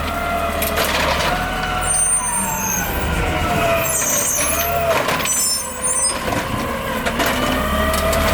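Garbage truck running, its engine whine rising and falling in pitch, with short high squeals about two seconds and four seconds in.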